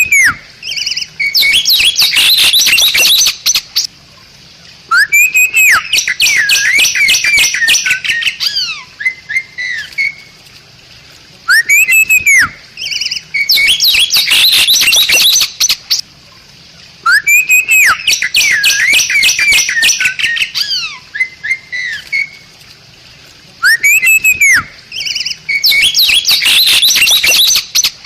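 Bali starling singing the same song phrase about every five to six seconds. Each phrase opens with a clear arched whistle, then breaks into a loud, rapid run of chattering notes lasting two to three seconds, with short pauses between phrases.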